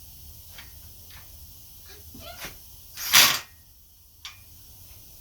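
Tools working on a bicycle's rear axle nuts as they are tightened down: a few light clicks, then one loud rasping noise lasting about half a second a little after three seconds in, and another click about a second later.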